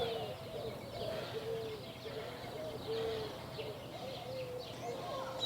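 Birds calling outdoors: a run of short, repeated lower-pitched calls mixed with thin high chirps.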